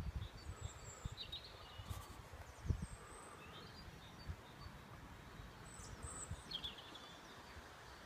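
Small birds chirping faintly, in short bursts every few seconds, over a quiet outdoor hiss, with a few low thumps.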